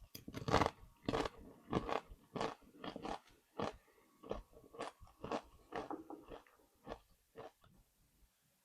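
Close-up crunching of tortilla chips being bitten and chewed with the mouth, a rapid run of sharp, crisp crunches, about two a second, fading toward the end.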